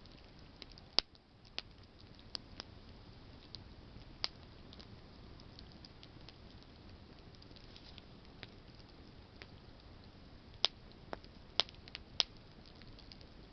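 Campfire of burning branches crackling: scattered sharp pops over a soft steady hiss, with a cluster of louder pops near the end.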